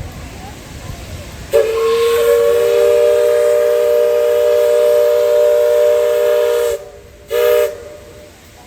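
Ship's horn sounding one long blast of about five seconds, a steady chord of several pitches, then a short blast less than a second later.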